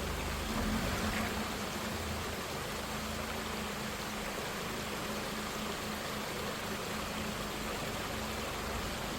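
Steady rush of flowing water from a valley stream, with a low steady hum underneath.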